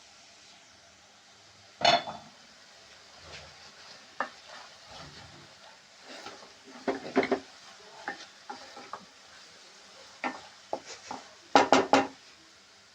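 A spoon stirring food in a cooking pot, clinking and scraping against the pot in scattered strokes, with a quick run of loud clanks near the end, over a faint sizzle of frying.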